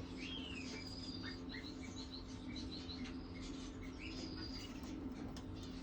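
Faint bird chirping: short high repeated notes and a few thin sliding whistles, over a steady low hum.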